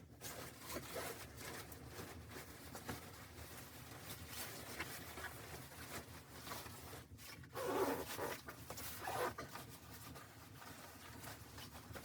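Close rustling and scraping, with two louder rasping strokes about eight seconds in and again a second later.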